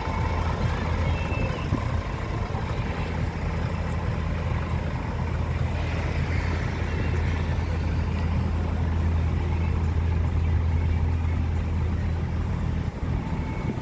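Scania truck engine running with a steady low drone.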